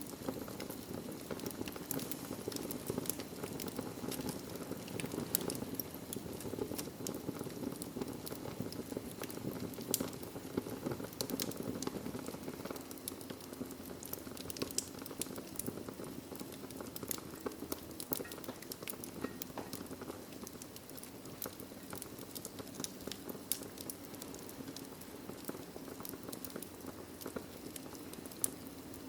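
Wood fire in a fireplace crackling, with irregular sharp pops and snaps over a low steady rumble of the burning logs.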